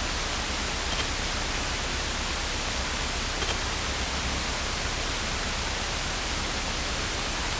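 Steady hiss of aircraft radio and intercom audio between transmissions, with faint ticks about a second in and again a few seconds later.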